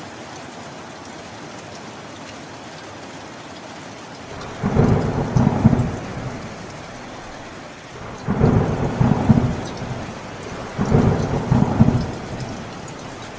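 Steady rain with three rolls of thunder, about four and a half, eight and eleven seconds in, each rumbling for a second or two and louder than the rain.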